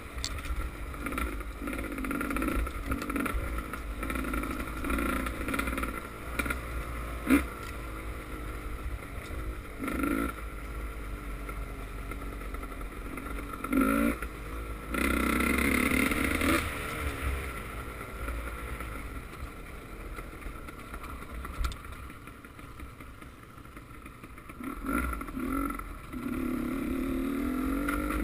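Motocross motorcycle engines revving, rising and falling in pitch as bikes ride by, loudest about halfway through and again near the end.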